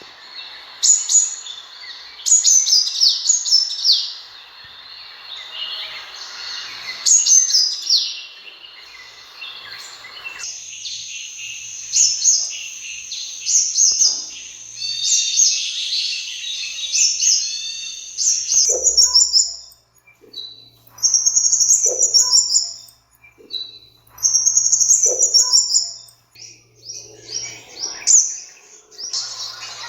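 Sunbird calling: a run of high, thin, quickly falling notes, then a long high trill from about a third of the way in, then short bursts of high chattering phrases.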